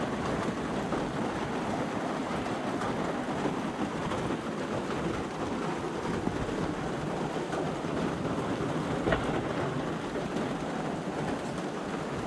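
Steady rain falling in a storm, an even wash of noise with a single sharp tap about nine seconds in.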